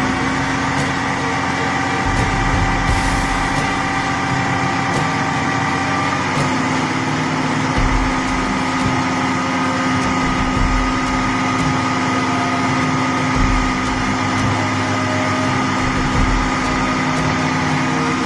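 A small car's engine running at steady, raised revs as the driver tries to drive its front wheel up out of a roadside gutter; the engine note steps up slightly about six seconds in.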